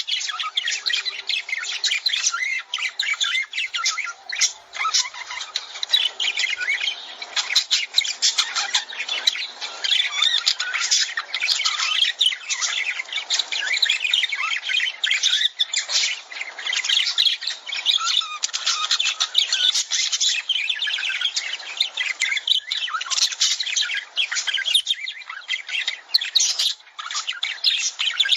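Lovebirds chattering, with dense, overlapping high-pitched chirps and squawks that go on without a break.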